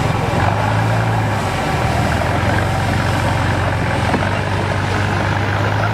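Off-road trial truck's diesel engine running at steady revs, a deep, even drone.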